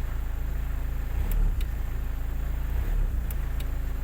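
Hyundai Accent CRDi common-rail diesel engine running steadily after its no-start repair, with a couple of brief swells in level and light ticks in pairs twice. The mechanic judges its CP1 high-pressure fuel pump worn.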